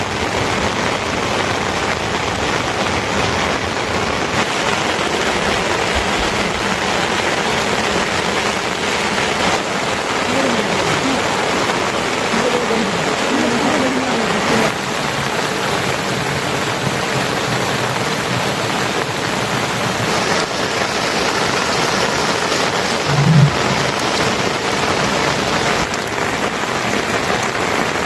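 Steady, heavy rain falling as an even hiss, with a few faint rising and falling calls around the middle and a brief low sound about two-thirds of the way through.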